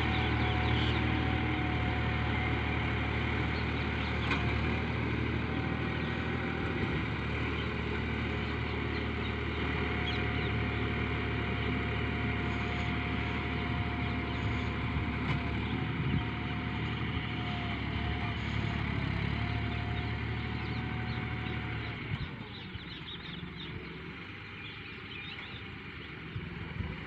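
John Deere tractor's diesel engine running steadily with a low, even hum. About 22 seconds in it drops away and becomes quieter.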